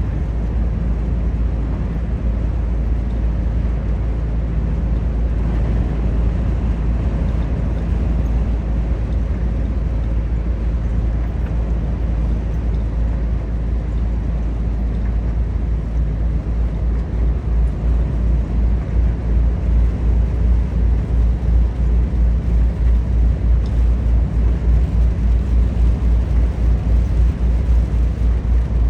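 Volvo FH 460 truck driving at road speed: a steady low rumble of the 13-litre six-cylinder diesel engine and tyres. About two-thirds of the way in, a regular low throbbing of roughly two pulses a second sets in.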